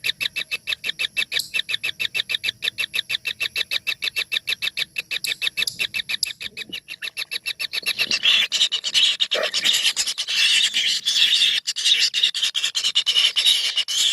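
Four tengke bird nestlings calling from inside a nest hole: a fast, even run of short high calls at about eight a second, turning about eight seconds in into a louder, dense clamour of overlapping calls.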